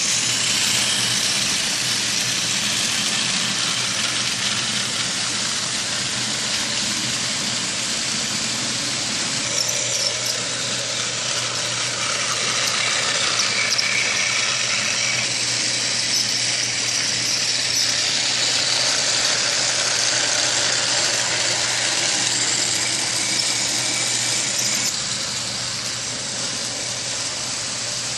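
Motorised Tomy Trackmaster toy engine running: the steady whir of its small battery-powered motor and gears, with a light squeal.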